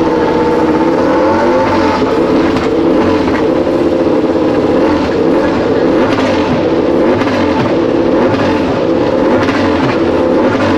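Aprilia RS-GP25 MotoGP bike's V4 race engine being revved, its note rising and falling again and again.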